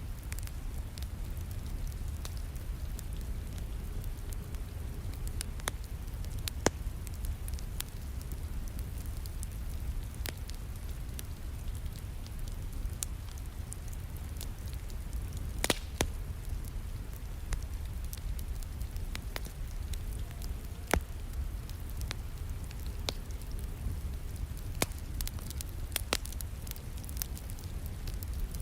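Wood fire in a fireplace crackling, with scattered sharp pops at irregular intervals, over a steady low rumble of rain.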